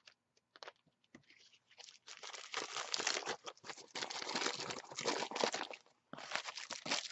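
Crumpled-up material being handled and pressed in between pages: a few scattered crinkles, then about four seconds of dense crackling, a short pause and another burst near the end.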